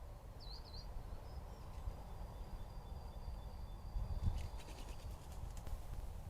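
Outdoor ambience picked up by a trail camera's microphone: a steady low rumble of background noise, with one short high chirp from a bird about half a second in and a few faint clicks near the end.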